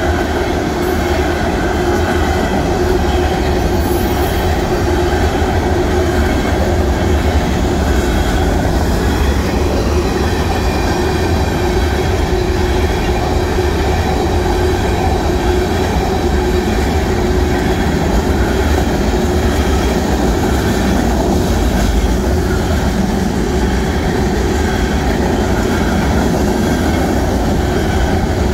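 BNSF freight train's tank cars and covered hopper cars rolling steadily past: a continuous, even rumble and clatter of steel wheels on the rail.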